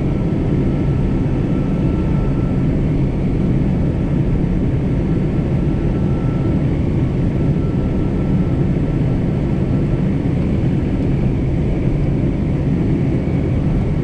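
John Deere 4066R compact tractor's diesel engine running steadily under load while scraping and back-dragging snow on a concrete driveway.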